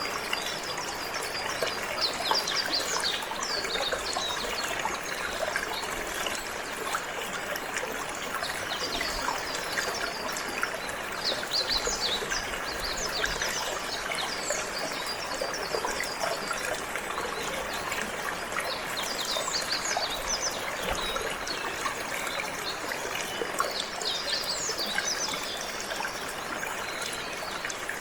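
Water trickling and running steadily, with a canary singing over it in bursts of rapid, high chirps and trills that come and go.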